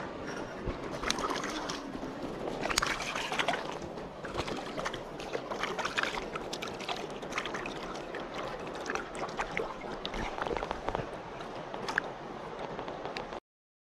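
Water sloshing and splashing over the steady rush of a mountain stream, with scattered small clicks and knocks; it cuts off suddenly near the end.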